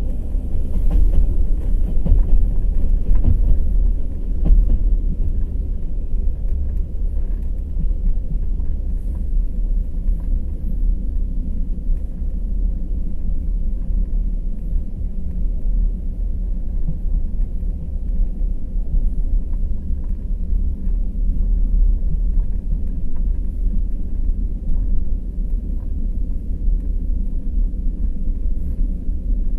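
Wheels of the Kovel–Kyiv night express passenger train running over the rails at speed: a steady low rumble, with a few sharp knocks from the rail joints in the first few seconds.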